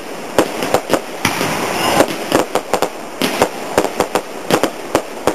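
Fireworks going off: a rapid, irregular string of sharp bangs and cracks over a continuous crackling hiss.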